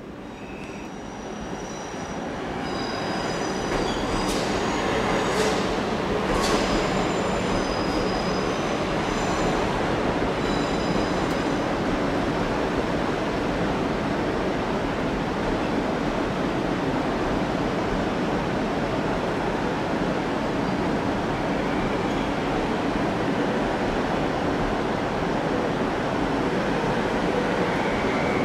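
South Western Railway electric multiple unit running through the station platform, growing louder over the first few seconds and then rumbling steadily. Its wheels squeal on the track in several high tones for some seconds, with three brief sharp sounds among them.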